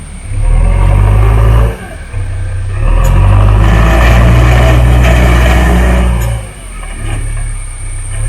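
Diesel engine of a JCB 3DX backhoe loader running under working load. Its sound swells and drops in three surges, the longest and loudest in the middle.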